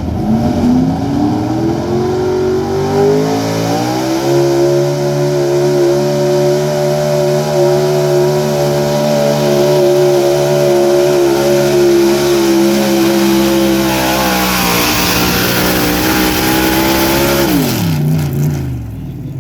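A 4x4 pickup truck's engine at full throttle on a pull: it revs up over the first few seconds and holds a steady high rpm under load for most of the run. It drops off sharply near the end as the truck stops.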